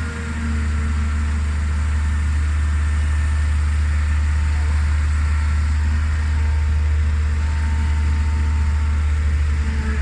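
A vehicle engine idling steadily, a deep continuous hum.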